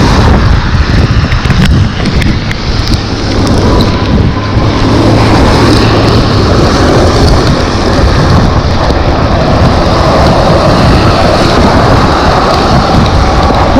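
Wind buffeting the microphone of a rider moving at speed on an e-bike in the rain, a loud, steady rumbling rush with the hiss of the wet ride under it.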